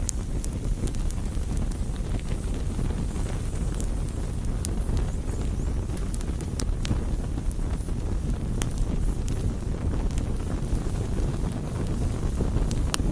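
Wood campfire burning: a steady low rumble with scattered sharp crackles and pops from the burning wood.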